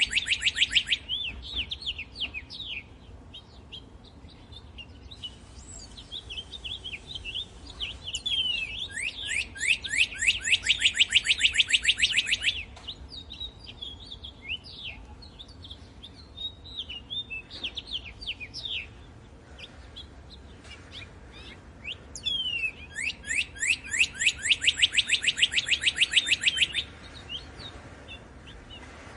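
Northern cardinal singing: three long, rapid trills of down-slurred whistled notes, one at the start, one about nine seconds in and one near the end, with scattered short chirps in between.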